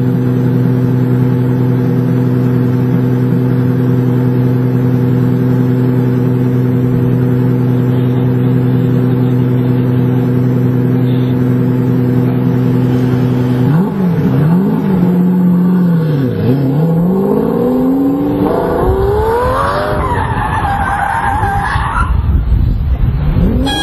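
Sports car engine idling steadily at a standstill. About 14 seconds in it is revved hard under acceleration, its pitch rising and dropping through gear changes, and tire squeal comes in near the end.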